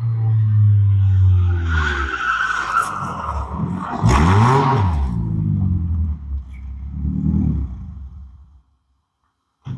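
Car driving in and pulling up, its engine pitch rising and falling, with a burst of tyre noise about four seconds in; the sound stops abruptly near the end.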